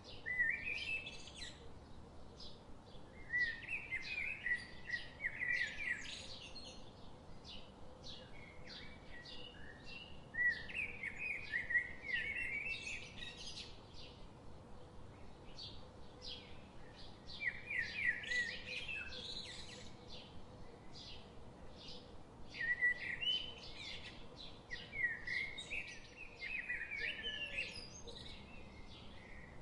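Songbirds singing: bursts of quick chirping, trilling phrases that come every few seconds, over a faint steady background hiss.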